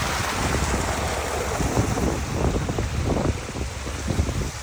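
Steady rush of a backyard pond waterfall, with wind rumbling unevenly on the microphone.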